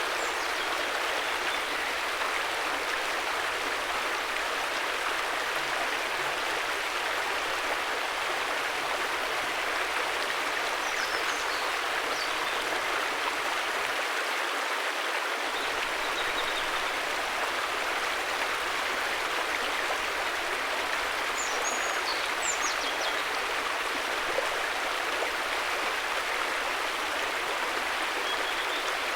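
River water flowing and rushing steadily, with a few faint high chirps now and then.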